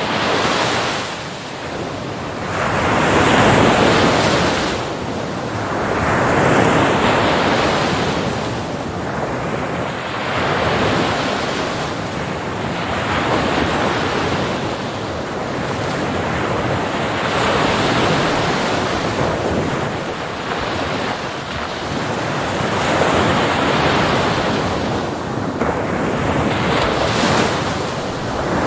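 Ocean surf on a beach: a continuous rushing of water that swells as each wave breaks and washes in, then ebbs, every few seconds.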